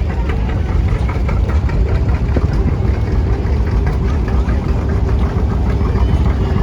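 Antique farm tractor engine running steadily, with a fast, even beat of firing strokes.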